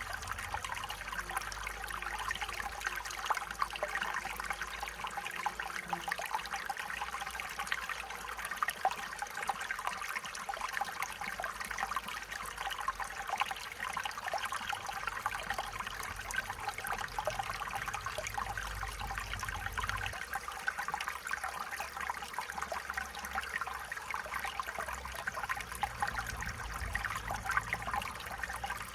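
Stream water running and trickling over stones, a steady babble with fine, rapid splashing.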